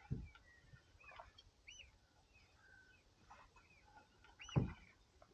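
Faint, scattered bird calls: short arched chirps, several in a row. Two dull knocks, the louder one about four and a half seconds in.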